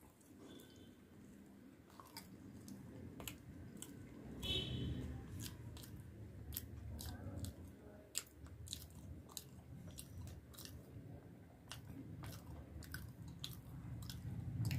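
Close-up mouth sounds of a person chewing puri and fried potato: frequent short wet clicks and smacks. A low rumble builds underneath and is loudest near the end.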